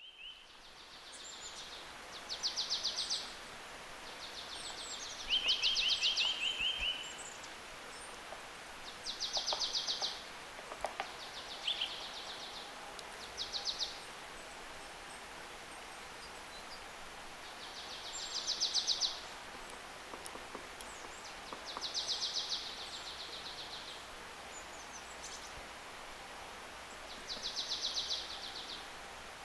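Woodland birdsong: a high, fast trill lasting about a second, repeated every few seconds over a steady background hiss.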